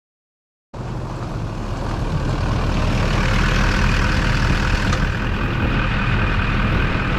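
Duramax diesel pickup truck engine running steadily, coming in suddenly about three-quarters of a second in and growing a little louder over the next few seconds.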